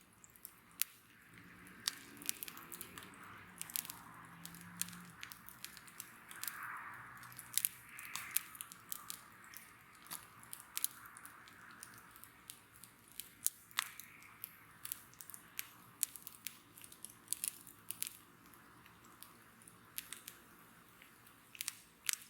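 Wood bonfire crackling, with frequent sharp pops and snaps over a soft hiss that swells and fades.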